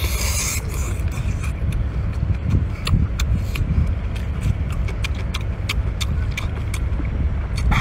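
Close-up eating sounds: wet chewing and sucking on small octopus and other seafood, heard as a string of short sharp clicks. A steady low rumble runs underneath.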